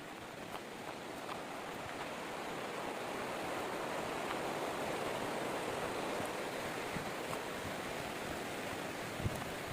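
Rushing water of a waterfall and its creek, a steady rush that grows louder over the first few seconds. A couple of soft thumps near the end.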